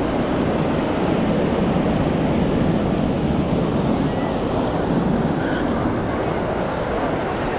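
Ocean surf washing onto a sandy beach in a steady rush of noise, with wind rumbling on the microphone.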